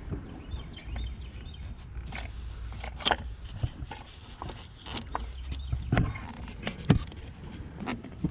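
Irregular clicks and knocks of hand tools and parts being handled during spark plug work in an engine bay, the sharpest knocks about three, six and seven seconds in.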